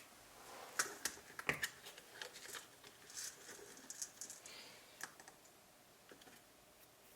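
Small tools and metal pieces handled on a jeweller's workbench: a quick run of light, irregular clicks and taps that thins out about five seconds in.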